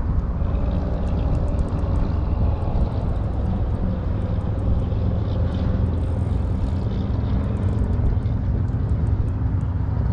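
Steady low drone of an engine running at a constant pitch.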